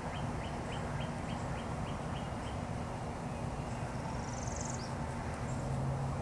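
A small bird chirping over and over, about three to four short chirps a second, stopping after about two and a half seconds, with a brief buzzy high call about four seconds in, over a steady low hum.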